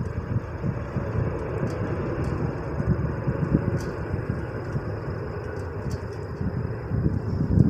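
Gusty wind buffeting the microphone, a rough low rumble that rises and falls, with a thin steady high whine behind it.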